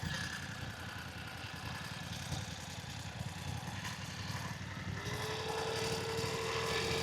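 Motorcycle engine idling with a steady low rumble; a steady higher tone joins in about five seconds in.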